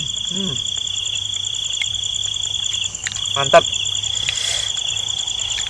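Insect trilling steadily at one high, even pitch, with a short break about three seconds in.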